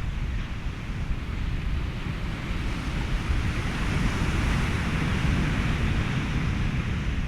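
Ocean waves and wind blended with a steady hiss of white noise, with a heavy low rumble underneath. A wave swells louder about halfway through and eases off near the end.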